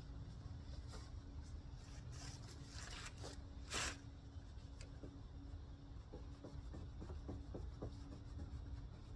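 Hand rubbing and wiping strokes on a car's plastic headlight lens: a few short swishes, the loudest a little under four seconds in, then a run of light ticks and taps, over a low steady background rumble.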